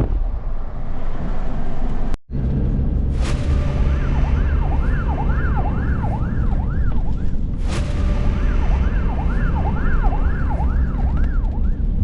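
Emergency-vehicle siren in a fast yelp, about three rising-and-falling wails a second, starting about three seconds in. Under it runs a steady low rumble of a vehicle on the road.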